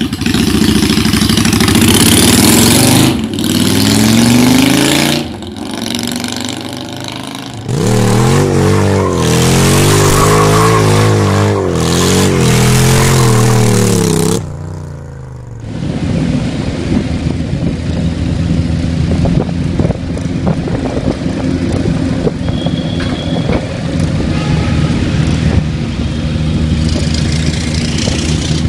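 Honda Steed 400 V-twin motorcycle engine revved through its exhaust, the pitch rising and falling with each throttle blip. About halfway through, the sound changes to a steady, lumpy idle with an even pulsing beat.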